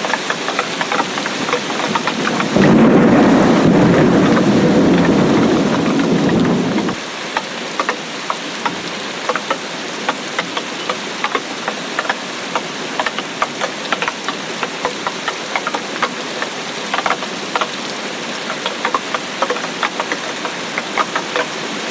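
Steady rain, with many distinct close drops striking a surface. About two and a half seconds in, a deep rumble of thunder comes in abruptly, lasts about four seconds and cuts off suddenly.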